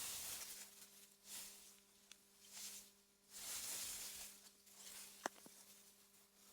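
AI-generated meadow wind ambience: soft gusts of wind through grass, swelling and fading about once a second over a faint steady hum. A sharp click comes about five seconds in.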